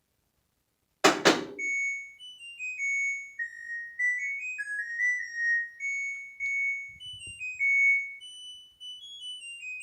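A loud click about a second in, then an LG washing machine's electronic end-of-cycle melody: a string of clear beeping notes that step up and down in pitch. The owner says the cycle ends at 2, which is not how it should go.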